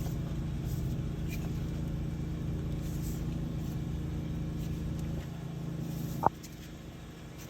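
Water jetter engine running steadily with a low hum. It drops off about five seconds in, and a short sharp chirp follows about a second later.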